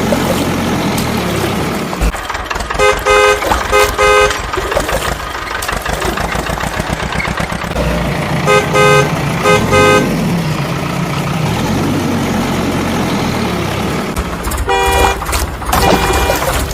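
Heavy vehicle diesel engine running with a steady low rumble, with a horn tooted in short bursts three times: a few quick toots about 3 seconds in, again about 9 seconds in, and near the end.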